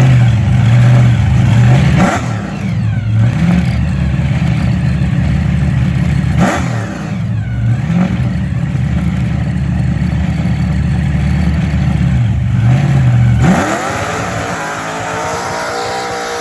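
Supercharged V8 of a Holden VF Commodore running loud at idle, blipped three times with short rising-and-falling revs. About thirteen seconds in it revs up hard and holds high revs as the rear tyres spin up into a smoking burnout.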